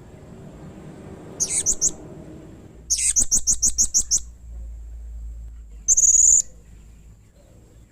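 Blue-crowned hanging parrot (serindit) calling in shrill, high-pitched chirps fired in rapid runs: a short run about a second and a half in, a longer run of about nine notes around three seconds, and one harsh buzzy note around six seconds.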